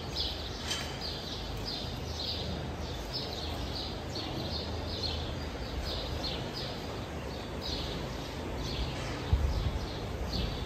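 A small bird chirping over and over, short falling chirps about two to three a second, over a low steady rumble of barn noise, with a low bump near the end.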